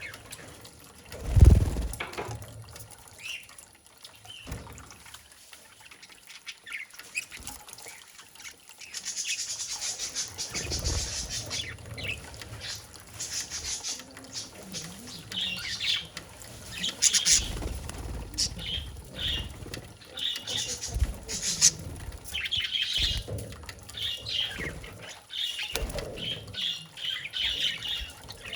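Pet budgerigar bathing: wings fluttering and splashing, with short chirps repeating through the second half. A single thump about a second and a half in.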